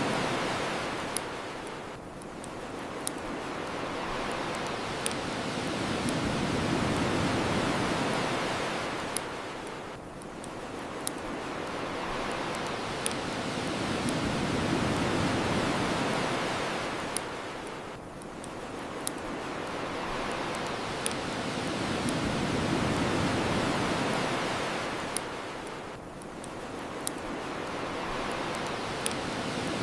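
Ocean waves washing onto the shore, swelling and falling away about every eight seconds, with a bonfire crackling: sharp pops scattered throughout.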